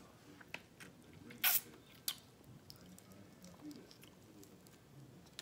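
Close-miked chewing and mouth sounds of a person eating seafood boil, with one louder mouth sound about a second and a half in and small clicks scattered throughout.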